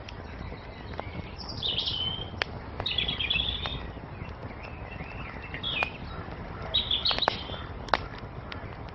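Wood fire crackling with scattered sharp pops over a steady low hiss, while songbirds chirp and twitter in short phrases several times.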